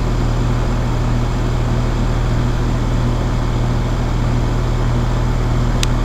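2001 Trane XE1000 Weathertron heat pump outdoor unit running steadily in heating mode, a low compressor hum under the fan's airflow, while its outdoor coil frosts over. A single sharp click near the end.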